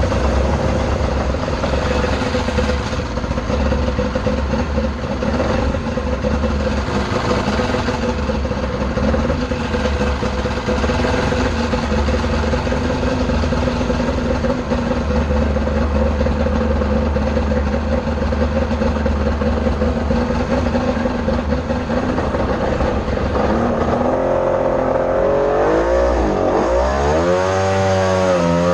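Mini jet boat engine running at a steady speed, then throttled up and down several times in the last few seconds, its pitch rising and falling.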